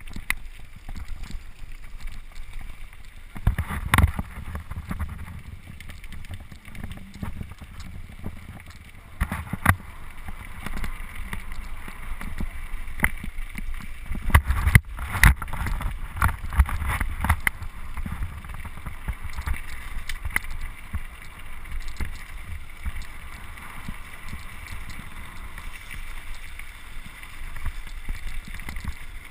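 Mountain bike rolling over rough trail ground, with sharp knocks and rattles from the bike and the camera mount and wind buffeting the microphone. The buffeting rumble grows stronger twice, about four seconds in and again around the middle.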